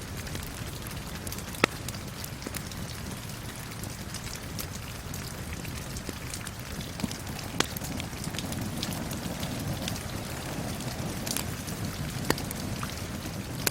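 Steady rain falling with a wood fire crackling, and a few sharp pops from the fire spread through it.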